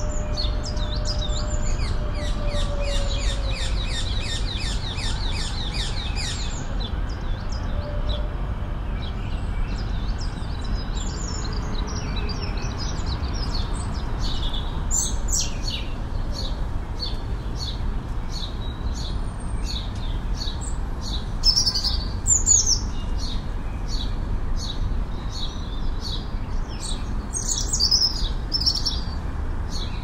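Songbirds singing in a park: a fast rattling trill in the first few seconds, then a bird repeating a short sharp chirp a little more than once a second, over a steady low rumble of city background noise.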